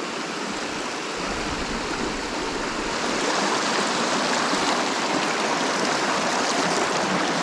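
Rushing water of a small mountain stream, a steady wash of noise that grows a little louder over the first few seconds and then holds.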